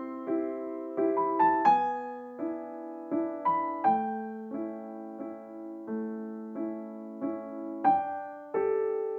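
Soft instrumental background music: a gentle piano melody with notes struck about two a second, each ringing and fading.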